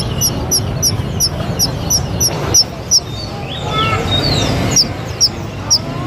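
Bird chirping in a fast, even series of short high notes, about three to four a second, breaking off for a moment mid-way. Other bird calls and the low murmur of a crowd run under it.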